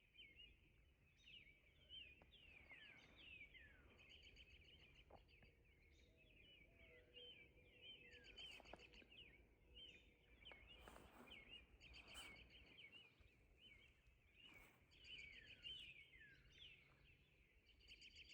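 Faint chorus of small songbirds chirping and trilling continuously.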